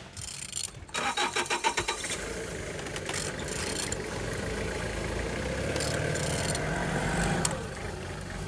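BMW N46B20 2.0-litre four-cylinder petrol engine cranking briefly on the starter about a second in, catching and running at a fast idle that slowly builds, then dropping back to a lower idle near the end.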